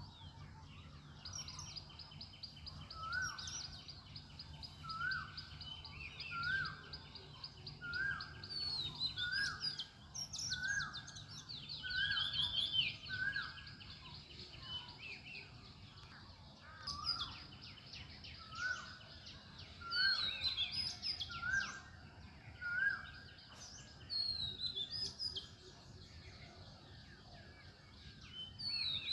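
Several birds calling in a morning chorus. One bird repeats a short rising whistle about once a second while others give fast trills and chirps higher up. A low steady hum runs underneath.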